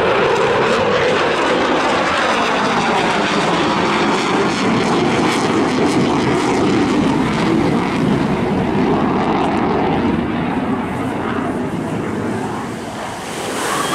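Eurofighter Typhoon FGR4 jet fighter's twin Eurojet EJ200 engines, a loud steady jet roar with slowly shifting tones as the aircraft manoeuvres, easing off briefly near the end.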